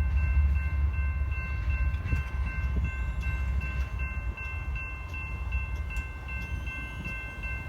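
Union Pacific freight train of tank cars rolling by with a low rumble that slowly fades, while a faint, steady high ringing pulses several times a second.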